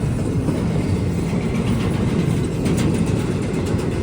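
Train going by, a steady low rumble of its wheels on the rails, with a few faint clicks about three seconds in.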